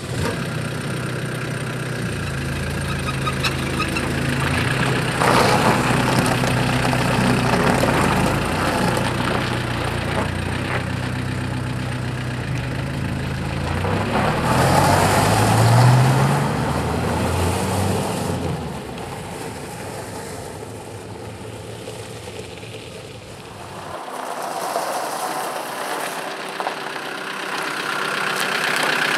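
A 1993/94 Renault Espace 2.2D engine running at idle, with a brief rev of rising pitch about halfway through.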